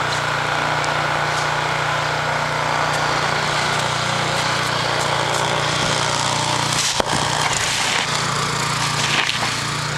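Small-engine snowblower running steadily at a constant pitch, with one sharp click about seven seconds in.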